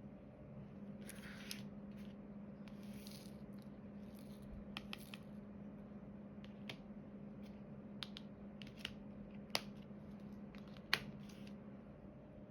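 Irregular small, sharp clicks and taps of diamond painting: a drill pen picking up resin drills and pressing them onto the canvas. Brief rustles come about one and three seconds in, over a steady low hum.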